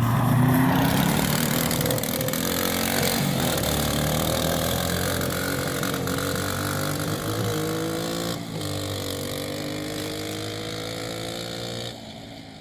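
Honda Big Red 200M three-wheeler's 200cc single-cylinder engine running under throttle and fading steadily as the machine moves away, its pitch slowly climbing with a brief dip about eight seconds in. The exhaust is pretty much just a straight pipe.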